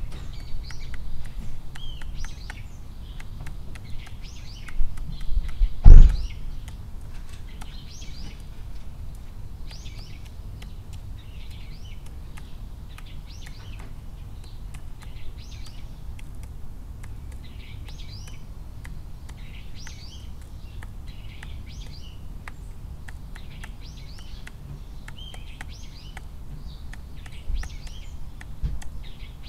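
A small bird chirping in short high notes, repeating about once a second, over a steady low outdoor rumble. One sharp loud knock about six seconds in.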